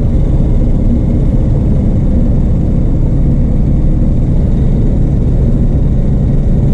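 Rotax 912 four-cylinder engine of a Van's RV-12 light aircraft running steadily with the propeller turning, shortly after a cold start on choke.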